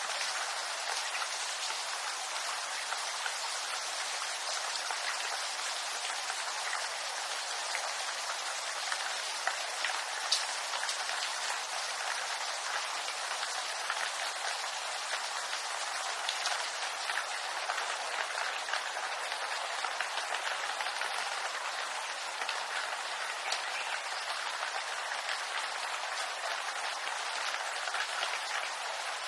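Steady rain falling on bamboo leaves, an even hiss with many small drop patters throughout.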